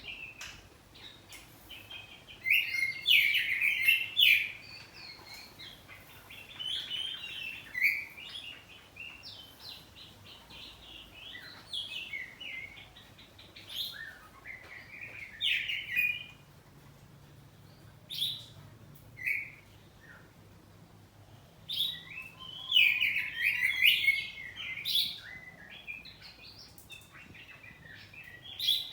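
Oriental magpie-robin (kacer poci) singing loudly in bursts of varied whistles and chattering phrases, with short pauses between them.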